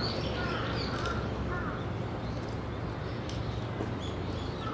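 Birds calling in short, repeated chirps over a steady low hum.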